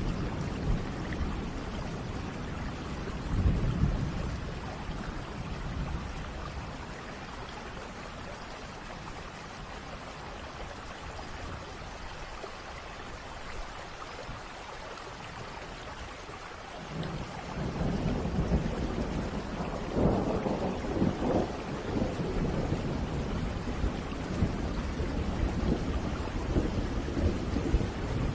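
Steady rain with rolling thunder: a short rumble a few seconds in, a quieter stretch of rain, then a longer rumble building from about two-thirds of the way through.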